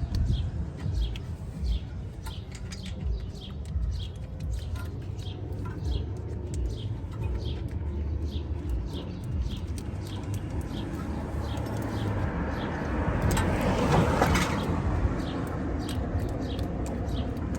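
Small birds chirping over and over in short, quick notes, over a low steady rumble of outdoor background noise. About two-thirds of the way through, a louder rushing noise swells and fades.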